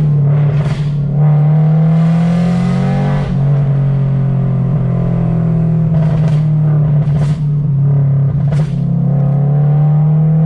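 2023 Toyota GR86's 2.4-litre flat-four engine heard from inside the cabin while driving, a steady drone that rises in pitch twice as the car accelerates. A few brief sharp noises cut in between.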